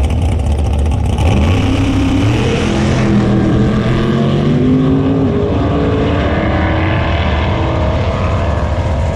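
Drag race car engine accelerating hard from a steady low note: starting about a second in, its pitch climbs, drops back at gear changes about two and a half and five seconds in, and keeps climbing.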